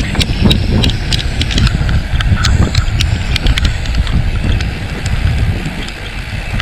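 Wind buffeting the microphone on a moving mountain bike, with many sharp clicks and rattles from the bike over rough ground.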